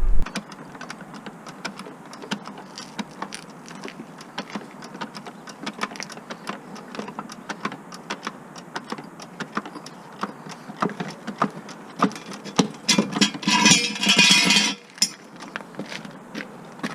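Irregular clicks and clinks of tools and metal parts being handled during car repair work, with a louder rattling burst lasting about two seconds near the end.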